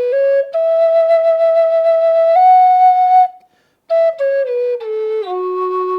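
Native American style flute in the key of F sharp playing up its scale: the notes step upward to long held high notes, then after a short breath about three and a half seconds in they step back down to the low fundamental note, which is held.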